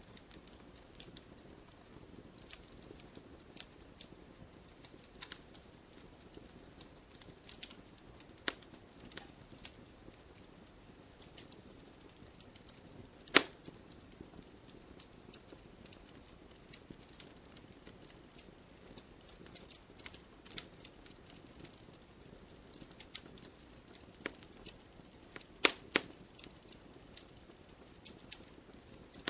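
Campfire crackling: a soft steady hiss of the fire with irregular sharp pops, the loudest about halfway through and a close pair of pops near the end.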